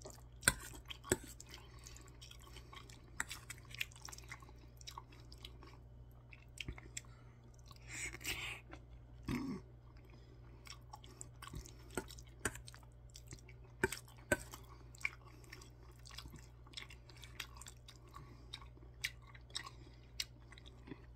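Close-up chewing of a mouthful of curry rice, wet and soft, with a metal spoon clicking and scraping against a stainless steel bowl every second or two.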